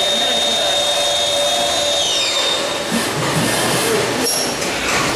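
Machine running with a steady high whine that falls in pitch and dies away a little after two seconds in, as its motor winds down, followed by irregular knocks and clatter.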